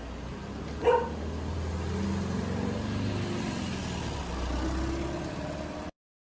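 A dog barks once about a second in, then a vehicle engine rumbles low for a few seconds, its pitch slowly rising and falling as if passing by. The sound cuts off abruptly near the end.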